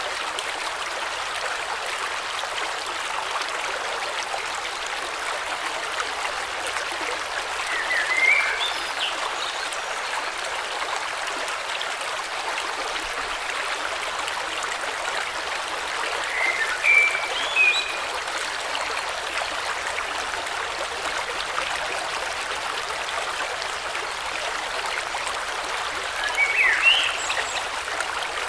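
River water flowing steadily in an even rushing sound, with short chirping bird calls three times, about ten seconds apart.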